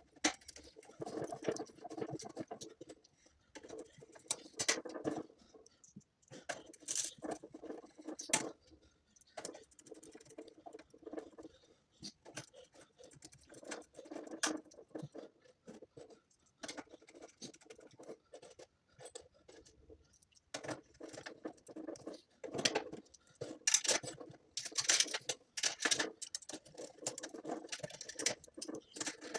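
Irregular scratching, tapping and clicking of small hard parts being handled, with sharp clicks scattered throughout and a busier cluster near the end.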